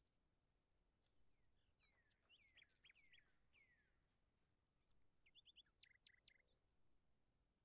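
Very faint birdsong over near silence: a run of quick falling chirps, then a cluster of short, sharp high notes a little after halfway.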